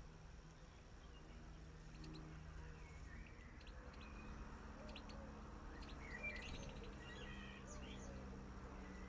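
Small garden birds chirping in short, scattered high calls. The calls start a couple of seconds in and are busiest around the middle, over a faint steady low hum.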